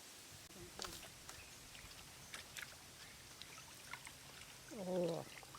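Faint outdoor background with scattered small ticks and drips, then about five seconds in a short voice-like call that slides steeply down in pitch.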